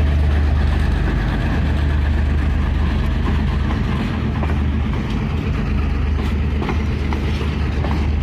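Diesel locomotive engine running with a loud, steady low drone, with a few faint clicks in the second half.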